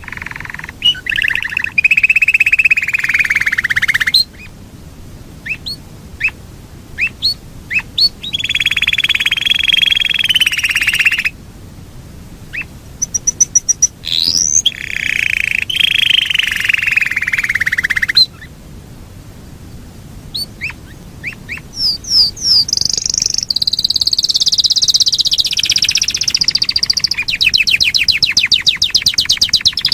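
Yorkshire canary singing long rolls: rolled phrases lasting several seconds each, separated by short pauses with single chirps, then a fast high trill near the end.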